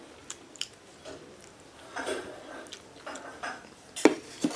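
Chopsticks and a bowl clicking and knocking against each other while noodles are eaten, in scattered light clicks with two louder knocks near the end.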